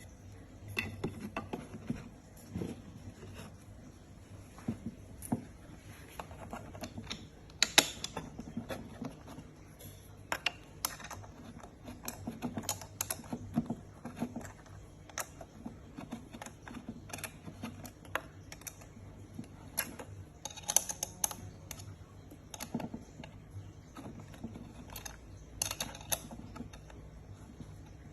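Irregular small clicks, taps and light knocks of parts and hardware being handled and fitted together, with a few louder knocks scattered among them.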